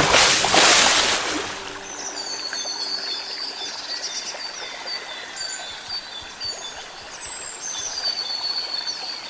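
Birds calling and trilling over a running stream, with a loud burst of rushing noise in the first second and a half.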